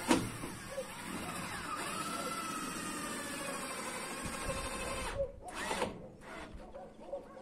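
A small motor running with its pitch wavering, starting after a sharp click and cutting off about five seconds in, followed by a couple of short bursts.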